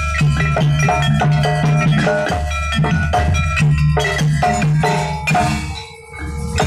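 Live jaranan gamelan accompaniment: struck metallophones ringing in a rhythmic pattern over drums and a deep bass, with the music briefly dropping away about six seconds in.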